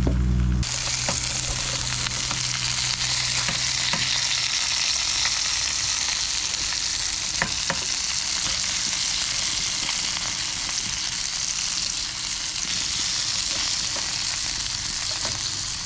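Fish fillets frying in hot oil: a steady sizzle with a few faint pops.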